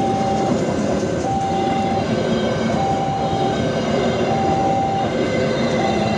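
Railway level-crossing alarm sounding a repeating two-tone high-low signal, about one cycle every second and a half, over the steady rumble and noise of a passing train.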